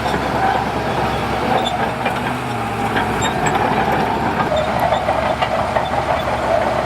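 Heavy earthmoving machinery running: a steady diesel engine drone with scattered small metallic clicks and clanks over it.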